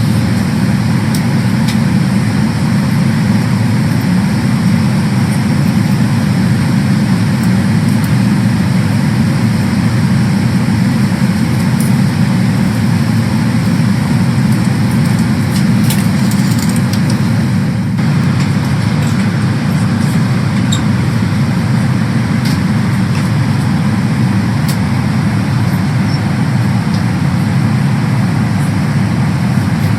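Steady low rumble of cabin noise inside a Boeing 777-300ER, its engines and airflow heard from a passenger seat, with an occasional faint tick.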